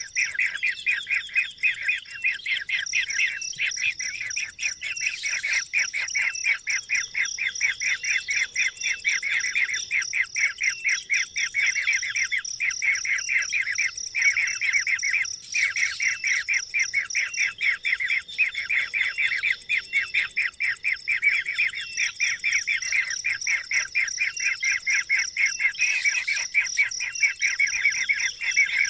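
A bird chirping in a fast, unbroken run of short, repeated chirps, over a steady high thin tone.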